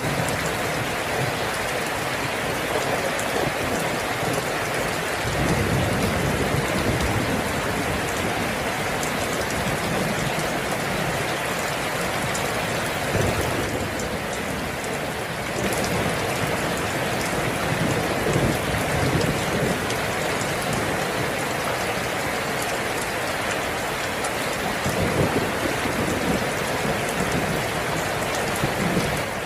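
Steady rain falling, with a few low rumbles of thunder swelling up now and then.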